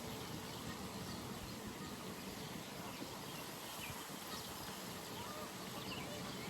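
Pond ambience: a steady background hiss with faint, scattered bird chirps.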